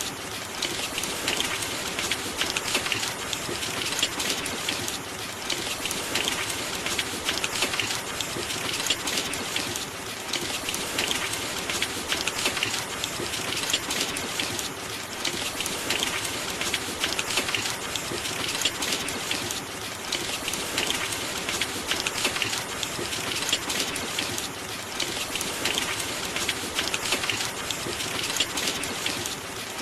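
Steady rain: a dense hiss of raindrop patter that swells and eases a little every couple of seconds.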